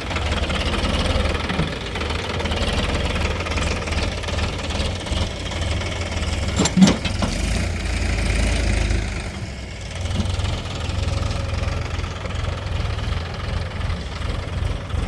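Diesel engine of heavy earthmoving machinery running steadily with a deep rumble, and one sharp metallic clank about halfway through.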